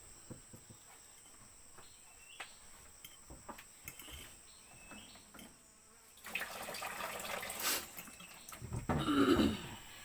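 Steady high-pitched insect chirring with scattered light clicks and knocks. About six seconds in, a rush of noise lasts a couple of seconds, and near the end there is a louder, briefer sound.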